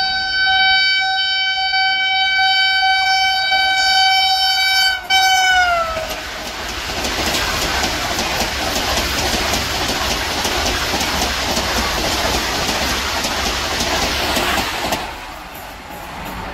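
Vande Bharat Express train sounding its horn in one long steady blast, broken briefly near five seconds, with the pitch sliding down as it ends. Then comes the loud rushing of the train running through at high speed, which stops abruptly about fifteen seconds in.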